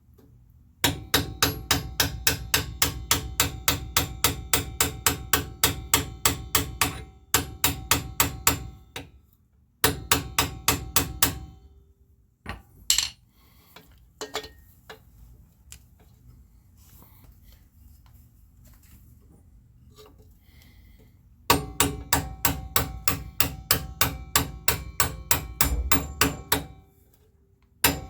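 Impact wrench hammering on the rear strut's lower bolt in several long runs of rapid, even blows, with a long pause in the middle broken by a few loose clicks and knocks of tools.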